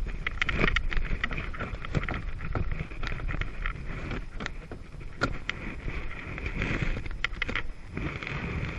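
Jet ski running on the lake: a steady rumble with wind buffeting the microphone and many short, sharp slaps of water.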